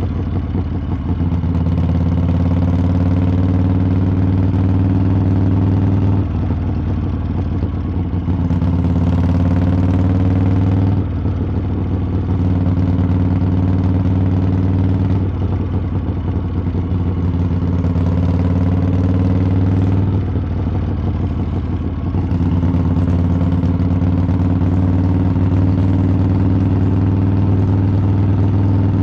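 Harley-Davidson V-twin engine and exhaust while riding, a steady low rumble whose pitch changes several times as the throttle opens and closes; about eight seconds in it climbs for a few seconds, then drops off abruptly.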